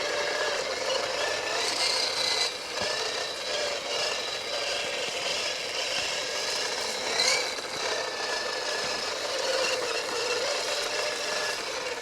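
Small electric RC rock crawlers driving, their motors and geared drivetrains whining with a pitch that wavers up and down with the throttle, along with rattling and scraping of the trucks.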